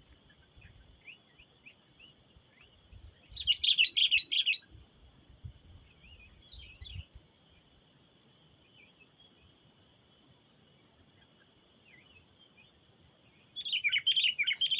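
Sooty-headed bulbuls (kutilang) calling. There are two loud bursts of rapid chattering chirps, each about a second long, at about 4 s and again near the end, with fainter scattered chirps between them. A faint steady high tone runs under them.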